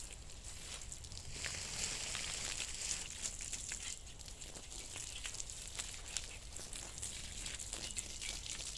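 Garden hose spraying water onto a metal bed frame, a faint, steady hissing patter, louder for a couple of seconds near the start, rinsing off soapy wet-sanding residue.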